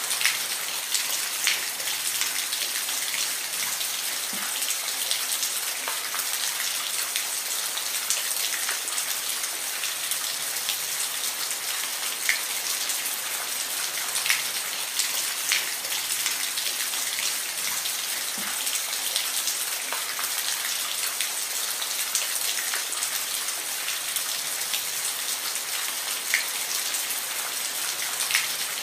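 Steady rainfall: an even hiss of rain with scattered louder individual drops ticking on a surface.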